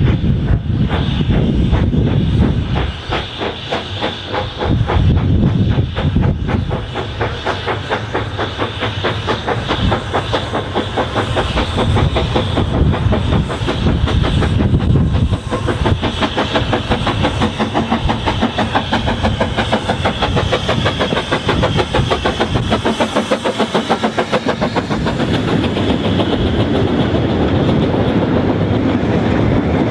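Narrow-gauge train running with a fast, steady clatter that carries on without a break.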